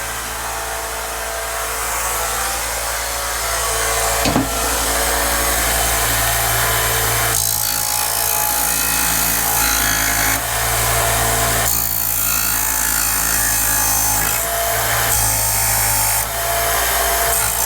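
Electric drill running steadily with its bit boring into steel plate, the cutting noise rising and easing as the bit bites. A single sharp knock about four seconds in.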